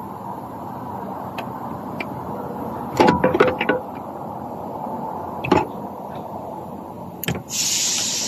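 Hand work on the fuel pump access under the rear seat: scattered clicks, then a loud cluster of clicks and rattles about three seconds in, followed by single knocks. Near the end a loud steady hiss starts.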